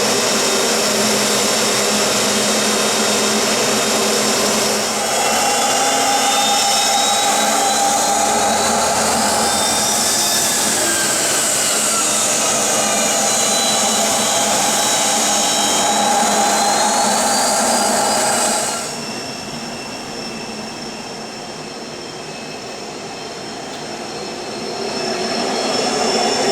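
Business jet turbofan engines running: a steady rush with high turbine whines that glide up and then down in pitch around the middle. The sound drops abruptly in level about 19 seconds in, then swells again near the end.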